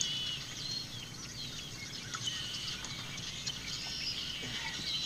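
Birds chirping and calling: scattered short high chirps and a few quick falling whistles over a low steady background noise.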